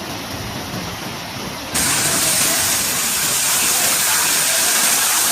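Storm noise: a steady rushing hiss of rain and wind, which jumps suddenly louder and brighter just under two seconds in.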